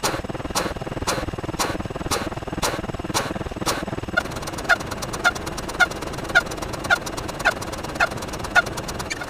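Sound-effect track: evenly spaced clicks about twice a second. About four seconds in, a fast clicking starts, and short honk-like calls repeat about twice a second over it.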